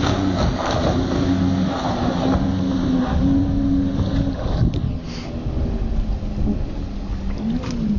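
Evinrude outboard motor on a racing boat running at speed, a steady engine note over wind and water rush, with a brief rise and fall in pitch near the end.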